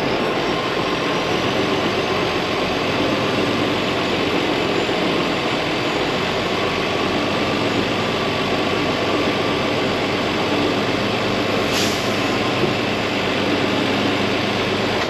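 Semi truck's diesel engine running steadily at low speed while the tractor-trailer is backed into a dock, with a brief hiss about twelve seconds in.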